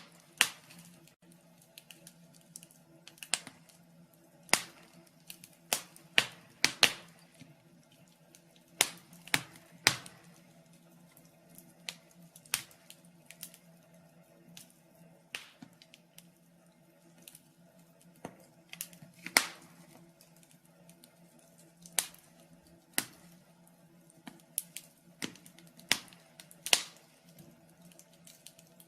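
Wood fire burning in a fireplace, crackling with irregular sharp pops, a few of them loud, over a faint steady low hum.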